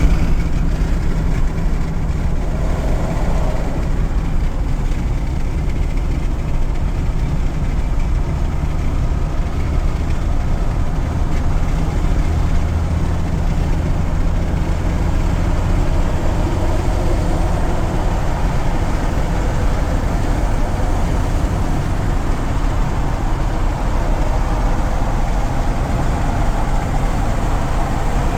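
Peterbilt 352 cabover truck's diesel engine running steadily with a deep, low rumble.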